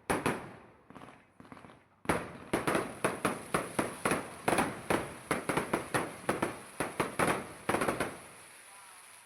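Fireworks bursting in a show: a few scattered bangs, then from about two seconds in a rapid volley of several bangs a second, each with a short echoing tail, which dies away near the end.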